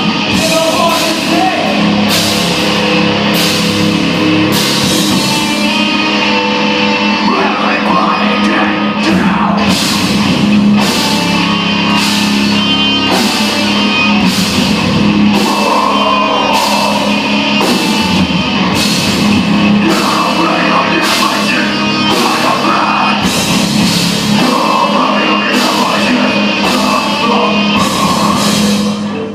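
Live rock band playing loudly: electric guitars and a drum kit with steady, regularly spaced drum and cymbal hits, with a singer's voice in the mix.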